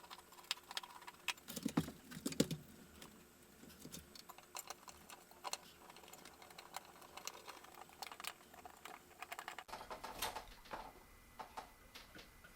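Scattered light clicks and taps of ceiling-fan hardware being handled at irregular intervals, with two louder knocks about two seconds in.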